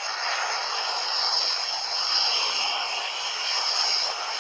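Burning matchsticks flaring together, a steady rushing hiss played back from a phone video.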